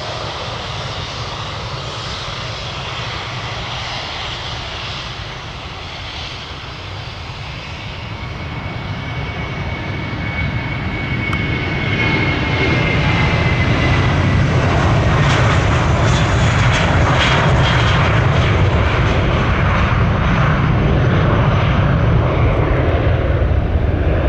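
Jet airliner engines growing louder from about eight seconds in, with a high whine that slides slowly down in pitch, then staying loud to the end.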